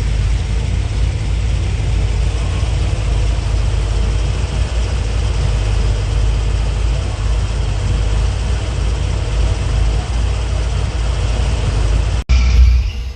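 A steady low engine rumble, with no clear rise or fall in pitch, broken by a sharp cut near the end and then a brief louder sound.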